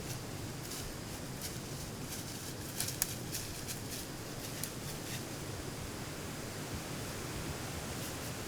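Steady low hiss of outdoor background noise with scattered faint rustles and small clicks, the sharpest pair about three seconds in.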